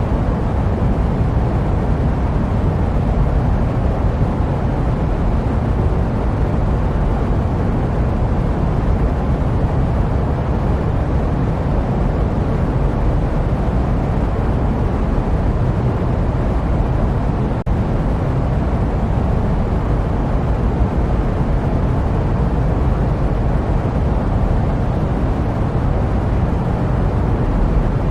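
Steady jet aircraft noise used as white noise: an even, deep rumbling drone with no changes in pitch, briefly dipping for an instant about two-thirds of the way through.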